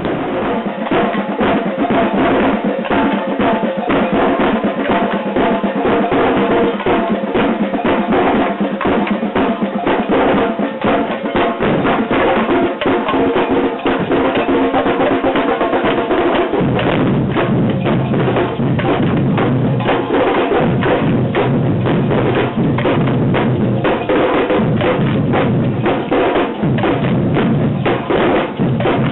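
Samba band drumming: a dense, steady rhythm of many drums played together, with deep bass drums coming in strongly about two-thirds of the way through.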